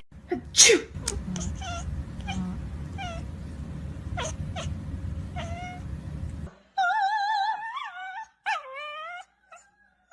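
Cat meowing: short, falling meows over a low rumble for the first few seconds, then long, wavering yowls in quick succession.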